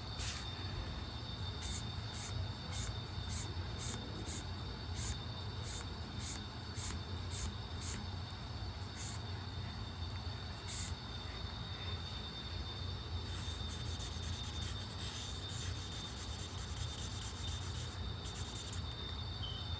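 Sketching strokes scratching on paper as a drawing is coloured in: short back-and-forth strokes about two a second, then a denser stretch of continuous scribbling near the end. A steady electrical hum and a thin high whine run underneath.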